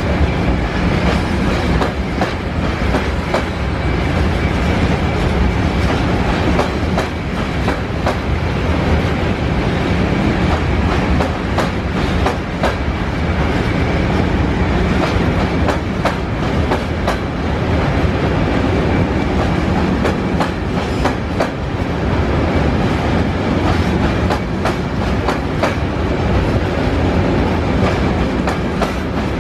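Freight train of covered hopper wagons rolling past at close range: a steady loud rumble with repeated clicks as the wheels pass over the rail joints.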